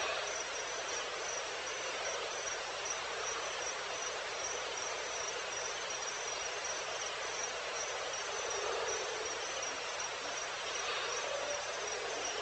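Crickets chirping in a steady, evenly pulsing high trill over a constant background hiss of night-time insects.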